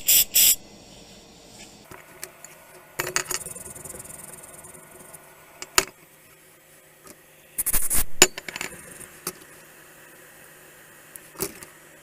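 Small metal tools and parts clicking and clinking on an electronics workbench during SMD resistor replacement on an inverter board. The clicks are scattered, with a quick loud run at the very start and a cluster about eight seconds in, over a faint steady hum.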